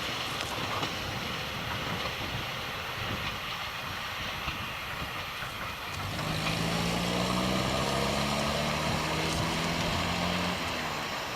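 Diesel train running past. About six seconds in its engine note comes up strongly and climbs slowly in pitch, then drops away near the end.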